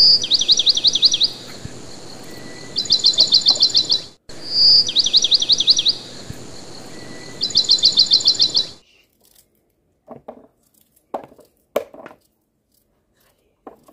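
A songbird singing a repeated phrase: a clear whistle followed by a fast trill of short downward-sweeping high notes, over a steady hiss. It cuts off suddenly about nine seconds in, leaving a few soft clicks.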